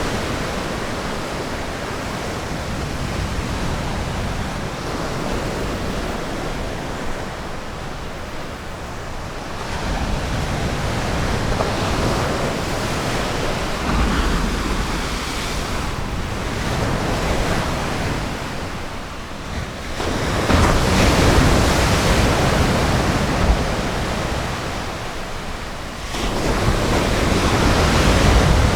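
Ocean surf breaking and washing up on a beach: a steady rushing wash that swells louder as each wave comes in, four times over.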